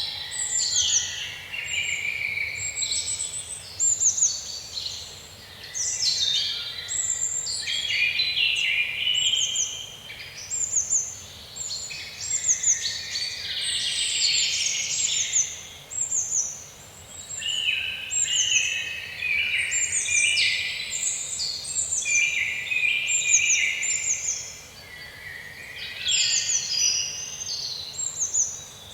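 A chorus of many songbirds singing at once: overlapping quick chirps and falling trills with no pause.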